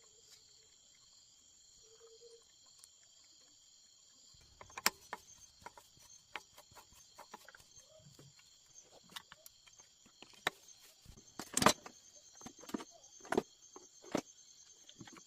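Steady high-pitched insect chorus, like crickets. From about four seconds in there are scattered sharp knocks and clicks, the loudest a little before the end.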